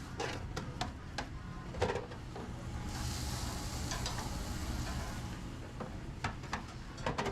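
Commercial kitchen sounds: scattered clicks and knocks of utensils and pans, then food sizzling loudly for a couple of seconds about three seconds in, over a steady low hum.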